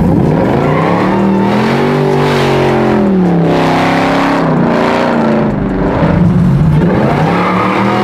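Plymouth 'Cuda muscle car doing a burnout, its engine revving hard and rising and falling in pitch several times as the rear tires spin and smoke.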